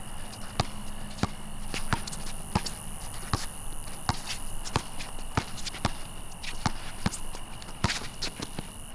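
Basketball being dribbled, steady bounces about every two-thirds of a second.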